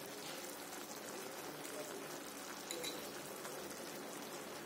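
Mushroom, onion and tomato mixture sizzling steadily and faintly in a steel kadhai over a high gas flame, with a small metal clink about three seconds in.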